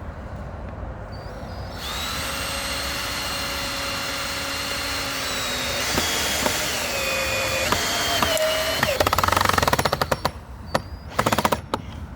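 Power drill driving a screw into wood. The motor whines steadily, then drops in pitch as the screw bites. Near the end it gives a rapid run of clicks, then a second short burst.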